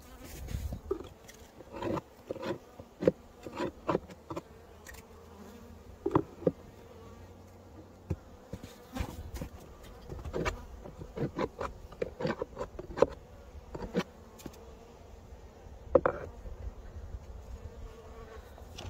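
Honeybees buzzing from an opened hive, a faint steady hum: the colony has come through the snowstorm alive. Over it, irregular sharp knocks and taps from handling the hive, loudest three times.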